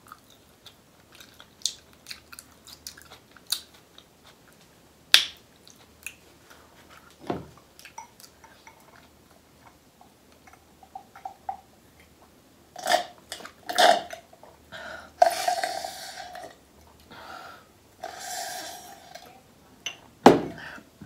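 Close-miked eating sounds: soft chewing and small wet clicks of the mouth, sparse at first, then louder sucking and slurping noises from a drink straw in the second half.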